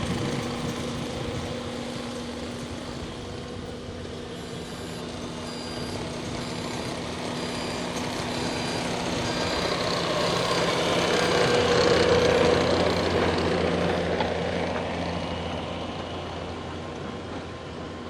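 Heavy vehicle engines running steadily. The sound swells to its loudest about twelve seconds in, then fades. Faint short beeps repeat evenly for a few seconds near the start.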